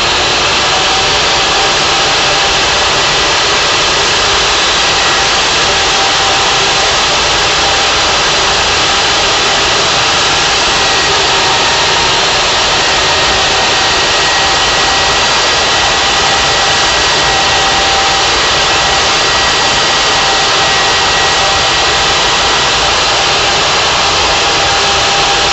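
Electric table saw running steadily at full speed, a loud even whine with a few steady tones, dying away at the end as it is switched off.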